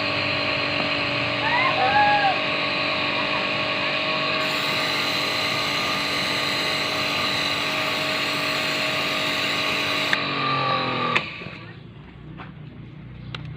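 An NLG jet cleaner's electric motor running with a steady whine. About eleven seconds in it is switched off, and its pitch falls as it spins down.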